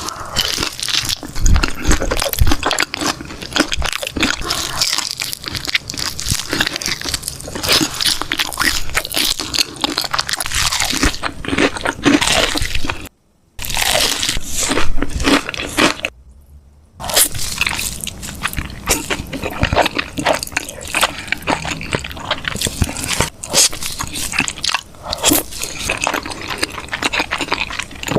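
Chicken being bitten and chewed close to the microphone: dense, loud crunching throughout, broken by two short pauses about 13 and 16 seconds in.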